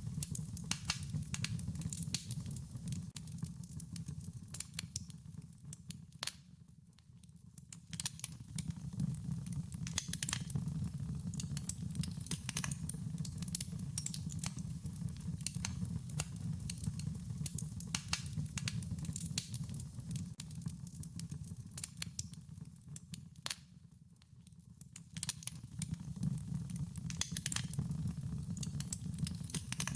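Wood fire crackling, with frequent sharp pops and snaps over a steady low rumble of burning. The crackle dies down briefly twice, about a quarter of the way in and again near the end.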